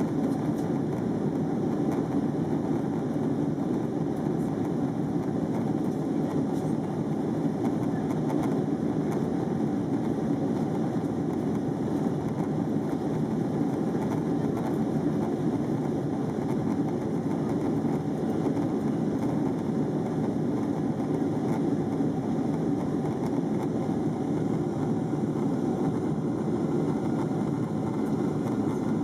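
Steady noise of a jet airliner's engines and airflow, heard from inside the passenger cabin.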